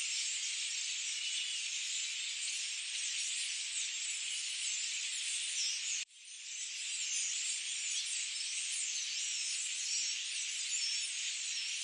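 Forest ambience: a dense, steady high-pitched chorus with many small birds chirping through it. About six seconds in it cuts out abruptly and fades back up over about a second.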